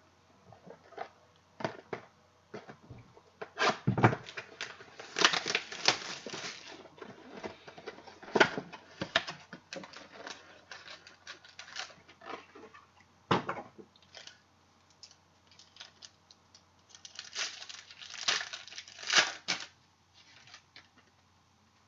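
Trading card packs and cards being handled and opened: crinkling and tearing of wrappers with scattered clicks and taps, in two busier spells, one about four seconds in and one near the end.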